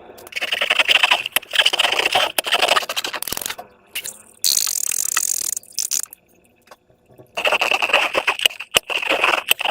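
Hands working slime, with stretches of dense crackling and clicking, and a brief hissing rush about four and a half seconds in.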